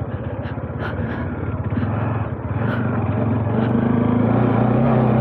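Bajaj Dominar 400's single-cylinder engine running under way on a rough off-road track. About halfway through the engine picks up and grows louder as the bike accelerates, then holds steady. A few light knocks sound along the way.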